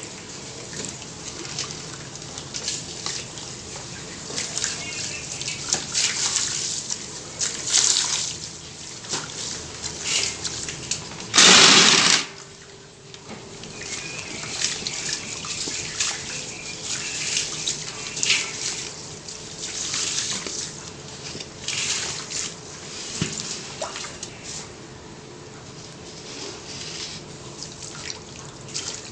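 Water trickling and dripping onto a mound of dry sand and cement, which crackles and crumbles as it soaks. About eleven seconds in there is a single louder gush lasting under a second.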